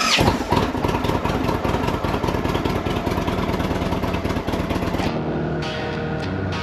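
Indian Chieftain Dark Horse's V-twin engine idling just after start-up, a steady run of rapid firing pulses. About five seconds in, guitar music takes over.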